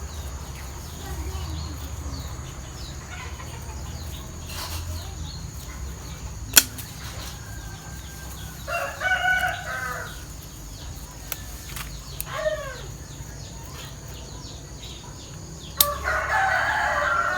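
A rooster crowing twice, each crow lasting over a second, with a sharp click between them.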